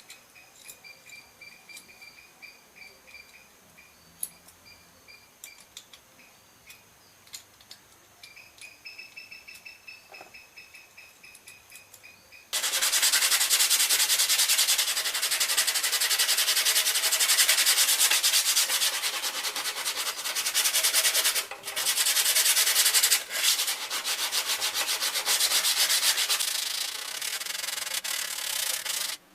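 Continuous sanding of rusty metal, starting suddenly about halfway through and running steadily with a couple of brief breaks before stopping abruptly.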